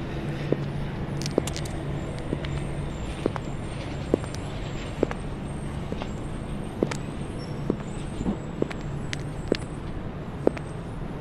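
High-heeled shoes clicking on the pavement at a steady walking pace, about one step a second, over a steady low rumble of road traffic.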